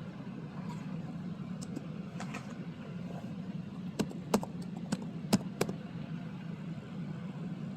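Steady low hum with a handful of sharp, light clicks about four to six seconds in.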